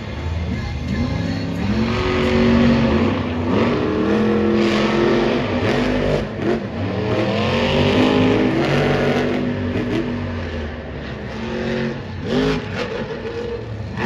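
Monster truck engines, supercharged alcohol-burning motors, revving hard during a race. Their pitch climbs and drops again and again, with several engine notes overlapping.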